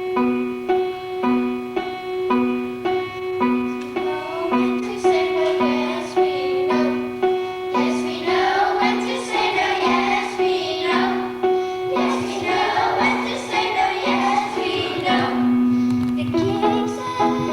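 Keyboard accompaniment with a note repeated about twice a second under a held tone, and a children's choir singing that comes in about four seconds in.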